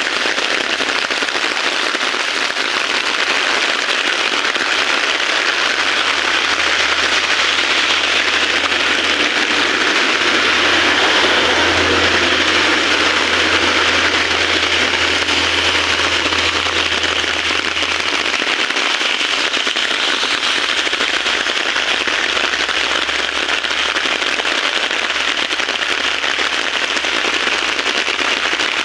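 Heavy rain falling in a dense, steady hiss, with a low rumble through the middle.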